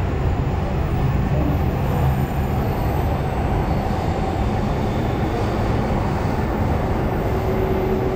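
A train crossing the elevated railway viaduct overhead: a steady low rumble, with a faint steady tone coming in near the end.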